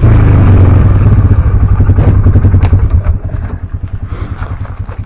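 Engine of a Ranger utility vehicle running while driving, with a steady pulsing note. It is loudest for the first three seconds, then eases off as the throttle comes back.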